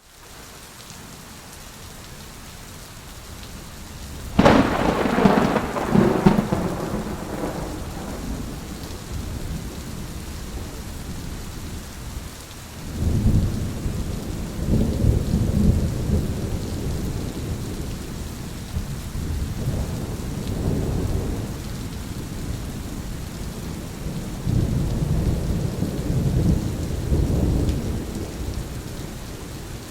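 Thunderstorm with steady rain: a sharp, close thunderclap about four seconds in that rolls away over a few seconds, followed by several deeper rolls of thunder in the second half while the rain keeps falling.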